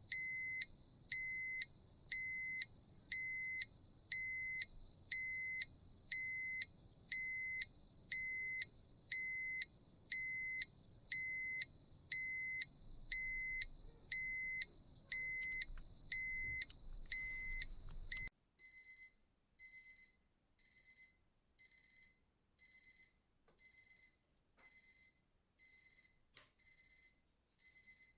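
Electronic alarm sounding a steady high-pitched tone with a pulsing beep about once a second over a faint hum. About two-thirds of the way through it cuts off and a different, quieter electronic alarm takes over, beeping about once a second with gaps between the beeps.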